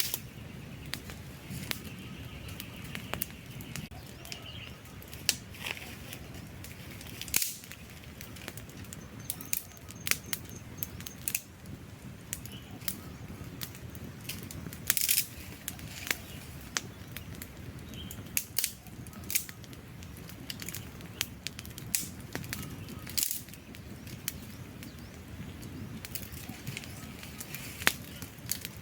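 Wood campfire burning, with irregular sharp crackles and pops over a low, steady hush from the flames.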